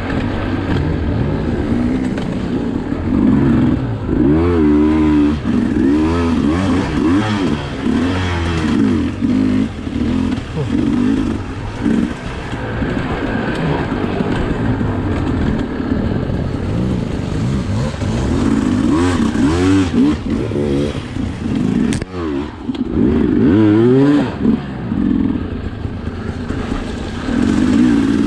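Sherco SE 300 two-stroke enduro motorcycle engine being ridden hard, its revs rising and falling again and again with each throttle opening and shift.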